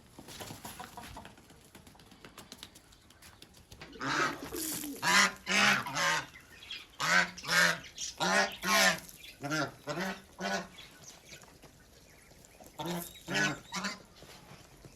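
Ducks quacking in several bouts of short, loud, repeated calls, starting a few seconds in.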